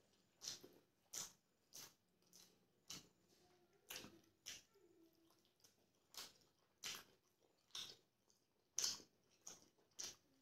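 Close-up eating sounds of a person chewing rice and chicken curry eaten by hand: a string of short, wet mouth clicks, about one a second.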